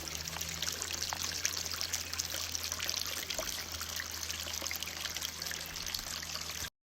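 Shallow stream water trickling and splashing over rocks in a wadi bed, steady throughout, then cut off suddenly near the end.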